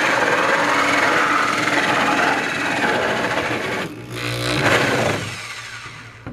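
Heavy-duty drill spinning a hole saw as it cuts through the plastic wall of a cooler. It pauses briefly about four seconds in, then runs again and fades toward the end.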